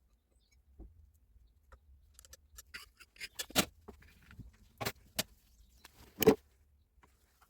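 Hard parts being handled on a workbench: irregular clicks and knocks, few at first, then more frequent, with several sharper knocks in the second half and the loudest about six seconds in.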